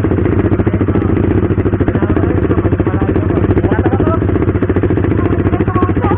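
KTM RC 390's single-cylinder engine running at a steady low speed, with no revving.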